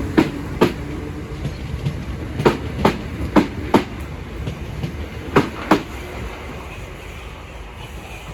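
Southern Class 455 electric multiple unit running over jointed track, its wheels clicking over the rail joints in pairs over a steady rumble. The sound fades near the end as the train draws away.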